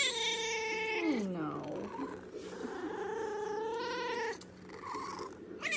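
A domestic cat making long, drawn-out meows: the first slides down in pitch over about a second and a half, a second is held for nearly two seconds, and a third begins near the end.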